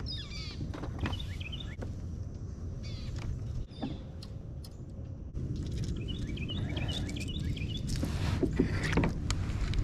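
Birds chirping in short repeated series over a steady low rumble, with a few sharp knocks near the end.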